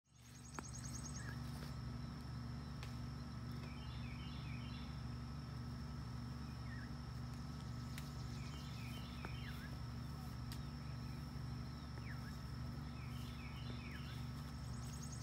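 Outdoor ambience with a steady low hum, over which a songbird sings a short phrase of quick high notes three times, about four to five seconds apart, with a few scattered single chirps.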